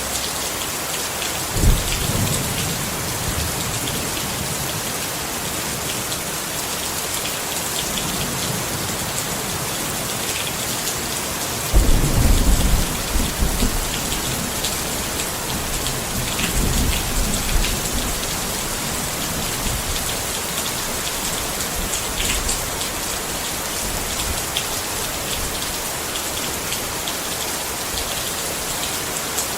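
Steady rain falling on a tent, with low rolls of thunder: a short one about two seconds in, the loudest about twelve seconds in, and a weaker roll a few seconds later.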